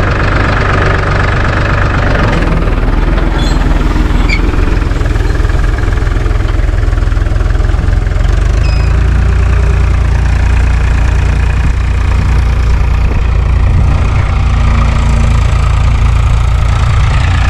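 Diesel tractor engine running steadily while plowing, a loud low drone that gets somewhat heavier about halfway through.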